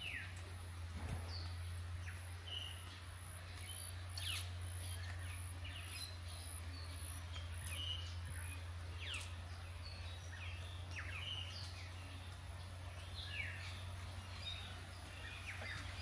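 Several birds calling: short chirps and quick falling whistles scattered throughout, over a steady low hum and a thin, steady high-pitched whine.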